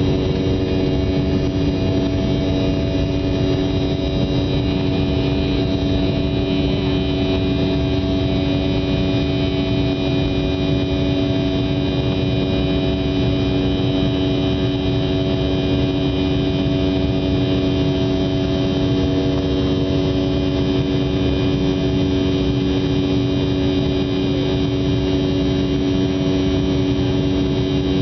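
Aircraft engine and propeller running with a steady, even drone and several held tones, with no change in pitch or loudness.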